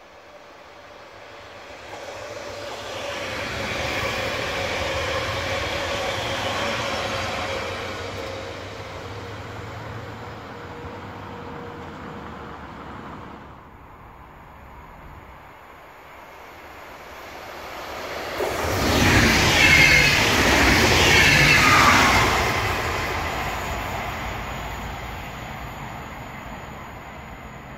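Two electric passenger trains pass in turn. The first builds up and fades over about ten seconds with a steady electric hum. The second, about eighteen seconds in, passes louder and then dies away gradually.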